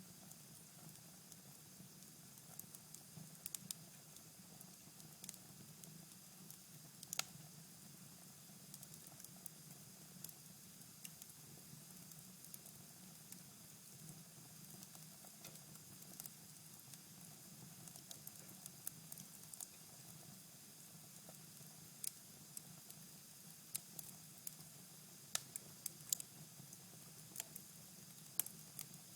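Cherry-wood fire in a fireplace crackling softly: a faint steady hiss with scattered sharp pops and snaps at irregular intervals, more frequent near the end, over a low steady hum.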